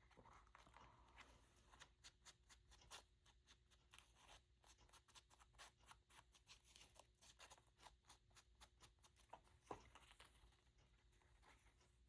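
Faint paper-crafting handling sounds: a long run of quick, irregular small clicks and light rustles from paper and tools being worked on a tabletop.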